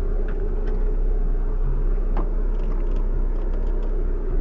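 Fiat Uno Mille EP running at low speed, its engine and road rumble heard from inside the cabin as a steady low drone with a faint click about two seconds in.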